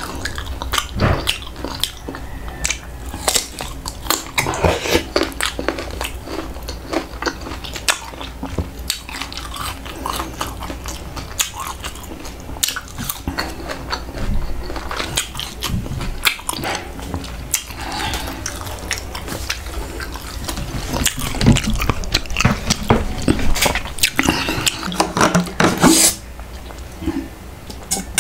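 Close-miked crunching and chewing of crispy fried tail (buntot) and green mango slices, with many sharp crackles and wet mouth sounds. A louder noise comes about two seconds before the end.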